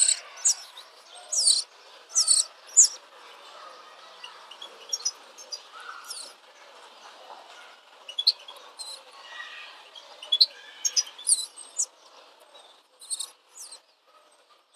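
Small birds chirping: short, sharp, high chirps, some in quick pairs and clusters, coming every second or so, over a faint background hiss.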